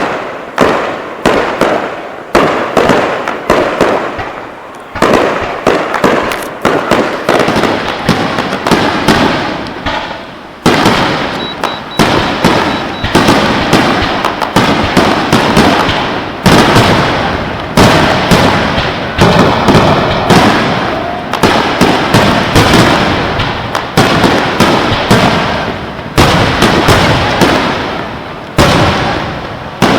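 Aerial fireworks shells bursting in rapid succession, sharp booms one or two a second, each trailing off with a crackling decay, building into a denser barrage partway through.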